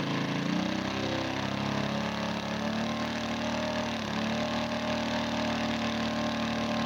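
Fuji four-stroke wet-sump model aircraft engine running: it picks up speed over the first second or so, then holds a steady pitch, with a brief dip in speed about four seconds in.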